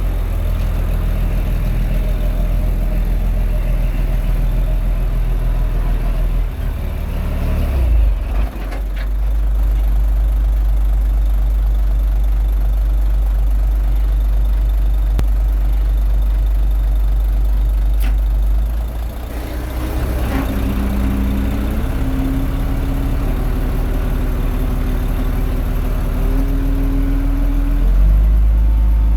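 Komatsu D21A bulldozer's diesel engine running steadily while working, its pitch shifting twice: once about a quarter of the way in and again about two-thirds of the way in, followed by a low whine that steps up in pitch a few times.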